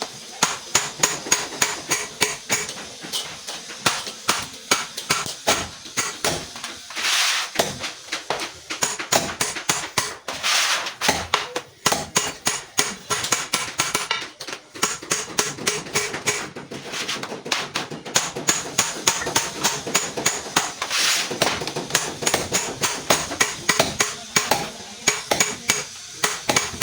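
Hammer striking metal over and over at a steady pace, about three to four blows a second, each blow ringing briefly.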